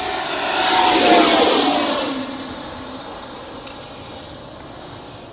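RC model jet's electric ducted fan whining in flight: the high whine swells, then drops in pitch about two seconds in and fades away.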